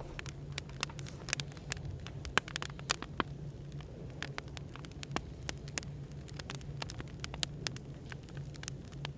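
Wood fire crackling, with many irregular sharp pops and snaps of burning firewood over a steady low hum.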